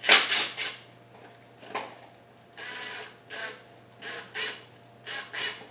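Hand tools and metal parts being worked in a car's engine bay while the AC belt is taken off: an irregular run of clicks, rattles and short scrapes, with one longer scrape about three seconds in.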